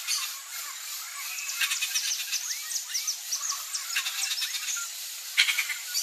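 Bird calls in tree canopy: a run of short high whistles and chirps, several sweeping downward, mixed with bursts of rapid harsh clicking notes, the loudest burst near the end.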